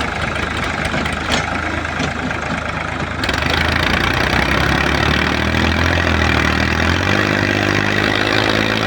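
Tractor engine running steadily, becoming louder and harsher about three seconds in.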